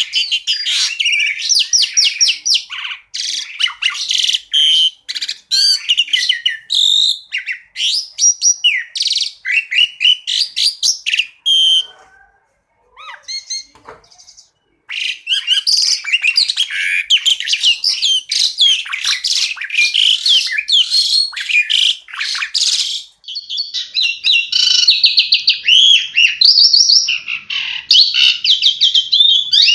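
Asian pied starling (jalak suren) singing a fast, dense run of chirps and whistles. Near the middle it drops to a few faint calls for about three seconds, then starts again.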